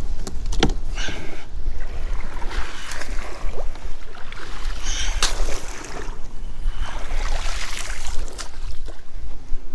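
Water splashing in repeated surges as a landing net is dragged through the water as a makeshift paddle to move a kayak, over a steady rumble of strong wind on the microphone, with a few sharp knocks.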